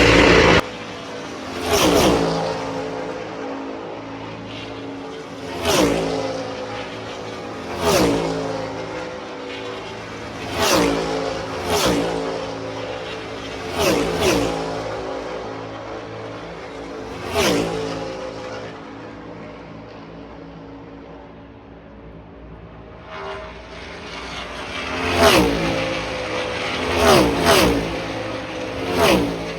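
NASCAR stock cars' V8 engines passing at speed one after another, each a sharp swell with a pitch that drops as it goes by. About a dozen cars pass, with a lull of several seconds past the middle before a few more come by close together near the end.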